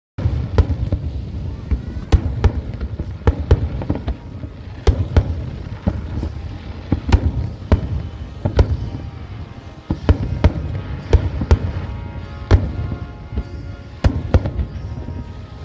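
Fireworks display bursting overhead, recorded on a smartphone: an irregular run of sharp bangs, one to three a second, over a continuous low rumble of shells going off.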